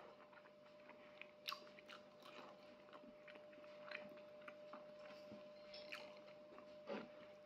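Quiet close-up chewing and mouth smacks of a person eating by hand, with scattered small clicks and a sharper smack about a second and a half in and another near the end, over a faint steady hum.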